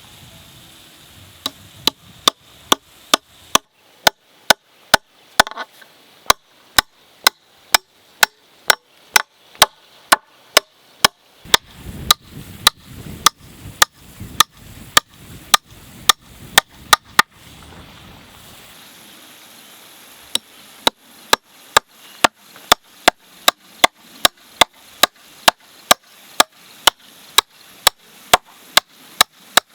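Rapid, evenly spaced sharp strikes of a hand tool on wood, about two or three a second, with a pause of a few seconds midway.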